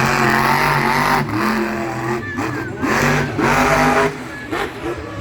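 Monster truck engine revving hard in repeated bursts, its pitch climbing and dropping between revs, then easing off near the end.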